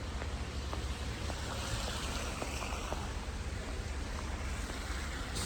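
Steady rushing noise of wind in a snowstorm, rumbling on the microphone, with faint ticks scattered through it.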